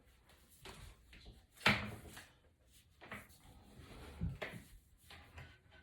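A handful of short knocks and scraping sounds, as of parts and tools being handled on a work surface, the loudest about a second and a half in and another a little after four seconds.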